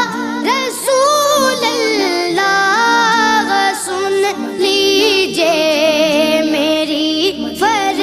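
A naat, an Islamic devotional song to the Prophet, sung by a high voice in ornamented, gliding melodic lines over a steady sustained low backing.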